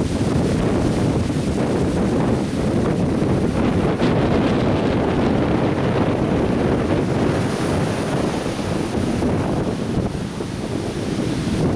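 Atlantic Ocean surf breaking and washing on a beach, a steady rushing roar, heavy with wind buffeting the microphone.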